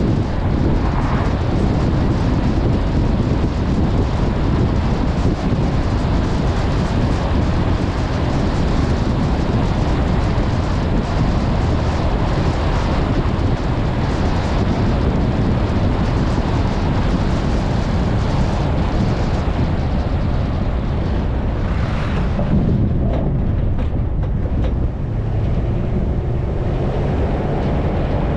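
Loud wind buffeting the microphone over the noise of a moving vehicle. The upper hiss thins out about three quarters of the way through.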